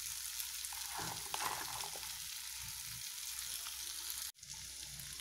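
Diced potatoes, onion and green chillies frying in a stainless steel pan: a steady sizzle. It breaks off for an instant a little past four seconds in.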